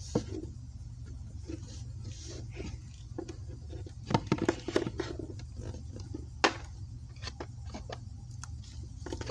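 Small plastic doll figures and accessories being handled and set down: irregular light clicks and taps, a quick cluster of them around the middle, over a low steady hum.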